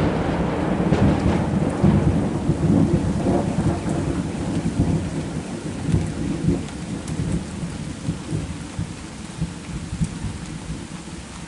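Thunder rumbling low and loud from a lightning strike that hit just before, slowly dying away over about ten seconds, over steady heavy rain.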